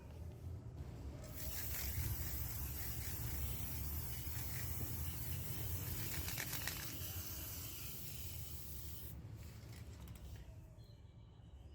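A steady scraping hiss starts about a second in and dies down after about nine seconds, over a low steady hum.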